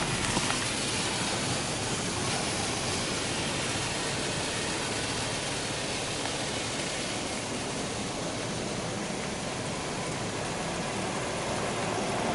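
Water jets of a touchless automatic car wash spraying onto the car, heard from inside the cabin as a steady rushing hiss.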